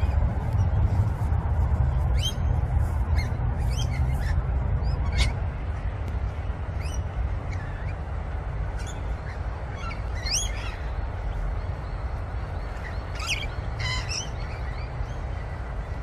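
Wild birds calling, with short high chirps and quick sweeping notes scattered throughout, over a steady low rumble.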